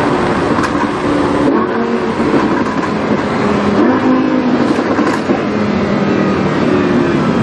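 Lamborghini Huracán's V10 engine through a PowerCraft aftermarket exhaust, running on the move, its note shifting up and down a little in pitch.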